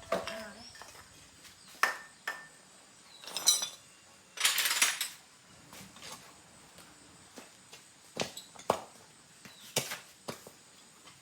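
Metal tools and motorbike parts being handled: a series of separate clinks and knocks, some briefly ringing, with a short hiss about halfway through.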